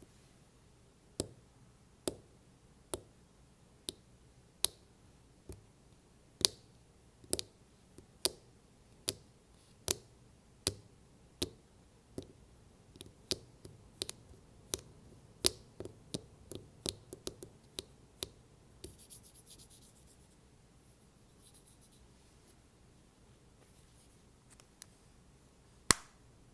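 Fingertip or nail taps on a plastic AirPods case, sharp single clicks about one a second that then come quicker and more uneven. A short scratching rub follows, with one loud tap near the end.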